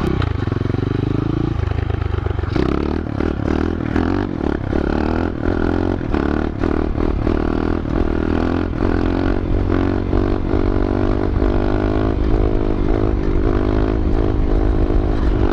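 125 cc pit bike's single-cylinder four-stroke engine running under throttle, picking up to higher revs about two and a half seconds in and then holding steady, with repeated rattling knocks from the bike over the ground.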